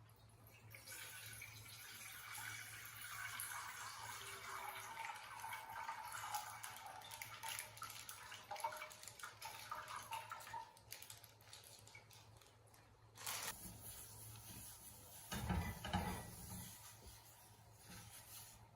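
Water running from a tap into a sink, a long steady run and then a second, shorter one. A few loud low thuds come about two thirds of the way in, and a faint steady low hum lies underneath.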